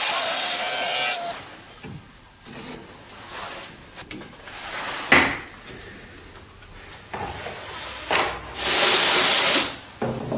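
Tools working on a wooden cabinet. A power tool runs steadily and stops about a second in. Then come uneven scraping and rubbing on wood, a sharp knock about five seconds in, and a loud, noisy one-second stroke near the end.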